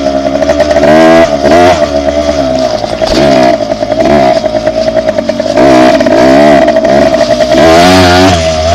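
Dirt bike engine revving up and down over and over as it is ridden, its pitch rising and falling with each twist of the throttle, with loud noisy surges at about a second in, near the middle and near the end.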